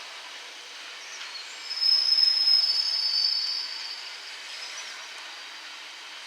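A train's steel wheels squealing against the rails: one loud, high-pitched squeal lasting about two seconds, starting just under two seconds in and dipping slightly in pitch before it fades, over a steady hiss of rolling stock.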